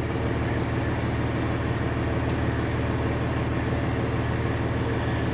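Semi truck's diesel engine running steadily at an even, low drone.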